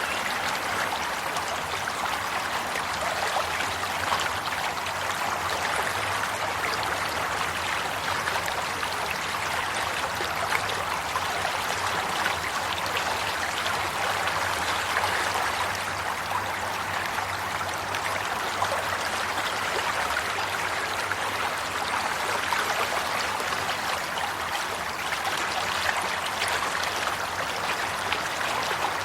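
Water flowing and trickling steadily, like a small stream running over stones, with a continuous bubbling rush.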